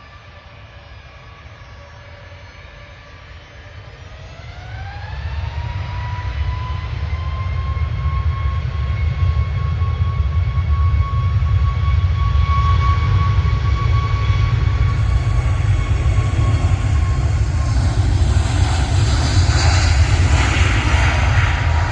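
Jet airliner's engines spooling up: a whine rises in pitch about five seconds in, then holds steady over a deep rumble that grows louder, building to a full roar near the end.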